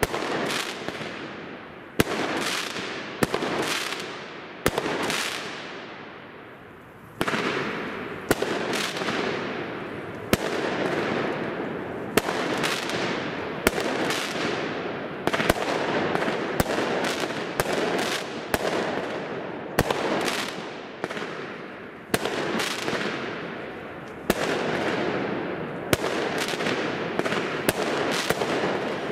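WECO Stardust compound fireworks cake (131 shots) firing shot after shot, about one to two a second: each a sharp bang that fades out over about a second. There is a short lull about five seconds in.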